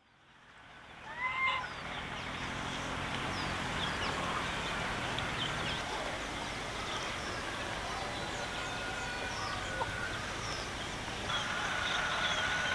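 Farmyard ambience of chickens clucking and calling, with small birds chirping, over a steady background hiss. It fades in at the start.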